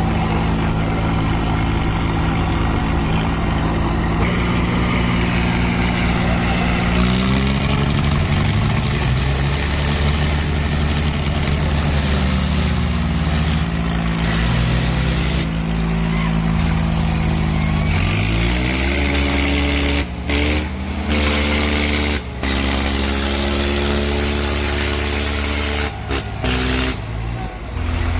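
Swaraj tractor diesel engines running hard under load as the two tractors pull against each other. The engine pitch rises and falls several times as they are throttled, with a few brief dips in the sound near the end.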